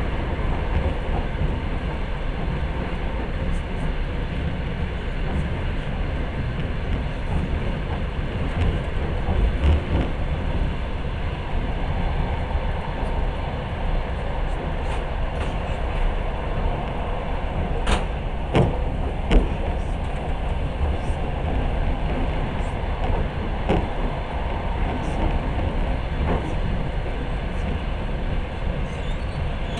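Passenger train in motion heard from inside the carriage: a steady low rumble of the wheels running on the track. A few sharp knocks come close together about two-thirds of the way through.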